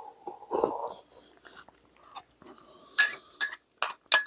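Eating at a table: a soft mouth noise about half a second in, then four sharp ringing clinks of utensils against dishes in the last second and a half.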